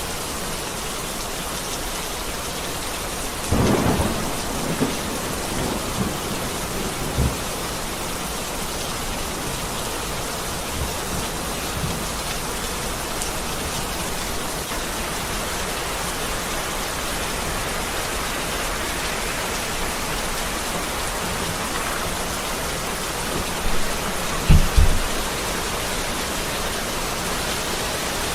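Heavy rain falling steadily, with thunder rumbling about four seconds in and again, louder and sharper, near the end.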